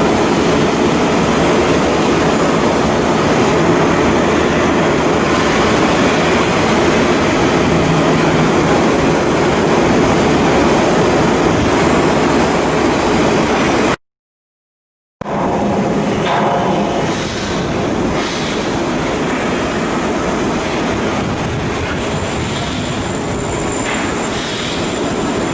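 Loud, steady din of heavy machinery at work. It breaks off abruptly for about a second in the middle, then resumes slightly quieter.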